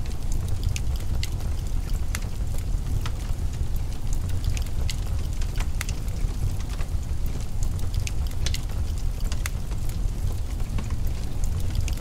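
Wood fire in a fireplace crackling, with sharp irregular pops and snaps over a steady low rumble.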